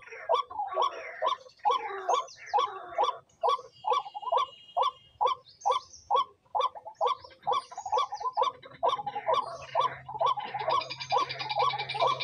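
A bird calling over and over, short calls coming about two or three a second in a steady rhythm. In the last few seconds a steady low hum and a higher, music-like layer join in.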